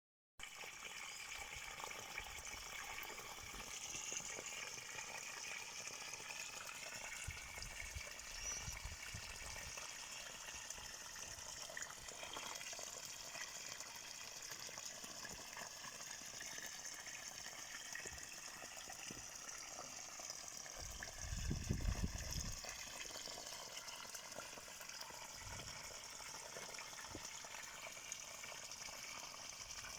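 Running water, a steady rushing and trickling. A low rumble comes briefly twice, the louder one about two-thirds of the way in.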